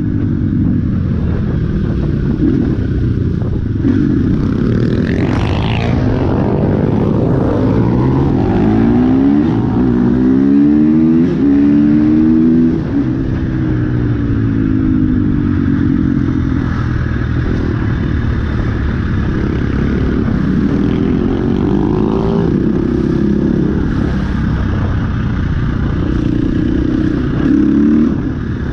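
Small single-cylinder dirt bike engines running under way, revving up and easing off through the gears, with the pitch repeatedly rising and falling.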